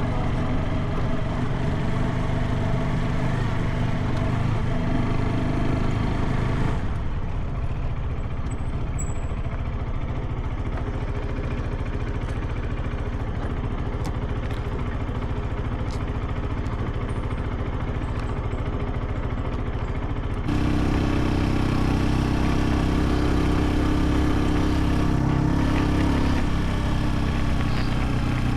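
Motorcycle engine running steadily while riding, a SYM NH180. The sound changes abruptly twice, about seven seconds in and about two-thirds of the way through, where it becomes louder and deeper.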